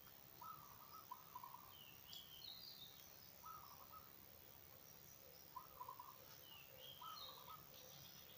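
Faint birdsong outdoors: one bird repeats a short, lower call every second or two, while another gives higher rising chirps, over a quiet steady background.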